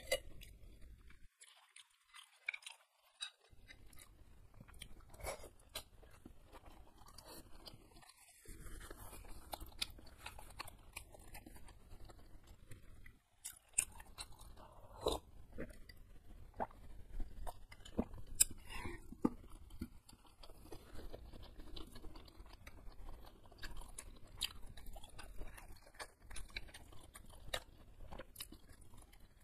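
Close-miked chewing of beef meatball soup with egg and noodles: wet mouth sounds with crunchy bites and many small clicks, broken by a few short pauses.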